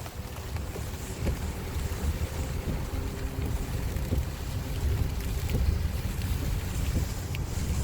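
Tropical-storm wind gusting against the microphone: a heavy, fluctuating low rumble with water noise under it.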